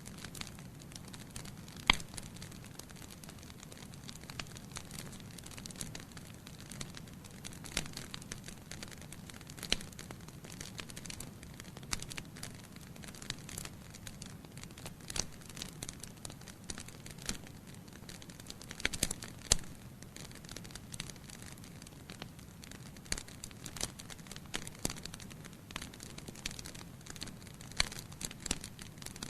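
Wood fire burning in a fireplace: a low steady hiss and rumble of flames with irregular sharp crackles and pops from the burning logs, a louder pop about two seconds in and a cluster of pops around two-thirds of the way through.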